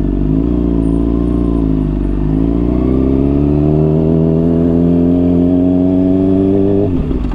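Honda CBR600RR's inline-four engine through a Hotbodies Stinger slip-on exhaust, pulling under throttle with its pitch climbing steadily. Near the end the note cuts briefly and drops, as on an upshift.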